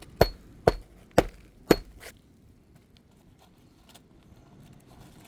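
Hammer driving a roofing nail through asphalt shingles: four sharp, ringing blows about two a second, then they stop about two seconds in.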